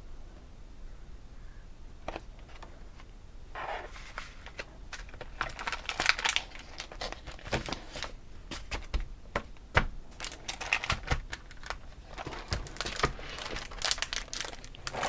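Packaging crinkling and rustling as it is handled, in irregular bursts of crackle that start a few seconds in.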